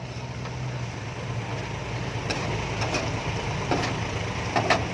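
Truck engine idling steadily, with a few short sharp clicks in the second half.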